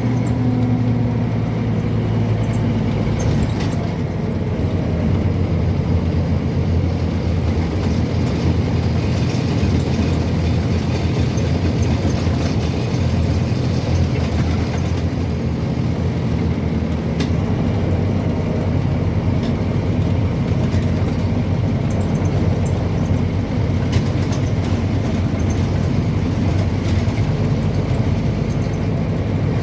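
Scania N230UB OmniCity bus heard from inside the cabin: its rear-mounted diesel engine running steadily under way, with a deeper hum joining just over halfway through.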